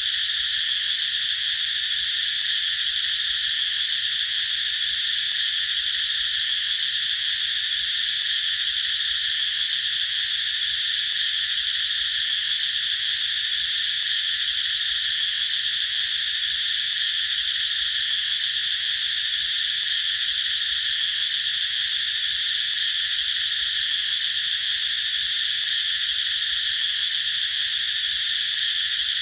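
Cicadas singing in a continuous, steady high-pitched drone that does not let up.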